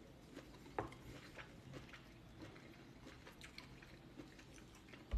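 Faint chewing of a mouthful of bean salad, with scattered small mouth clicks and a sharper click near the end.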